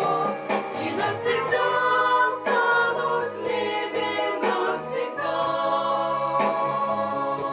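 Several voices singing sustained harmonies without clear words in a Christian gospel song.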